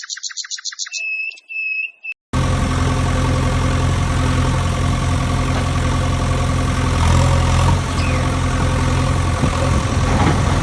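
Electronic sound effects from a battery-powered toy vehicle's sound chip: a rapid run of high beeps, then a held high tone, and after a brief gap a recorded engine idling sound that starts abruptly and runs steadily.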